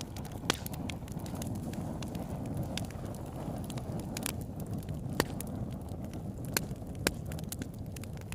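Wood campfire burning: a steady low rush with scattered sharp crackles and pops, a few louder ones standing out, about half a second in, around five seconds and near seven seconds.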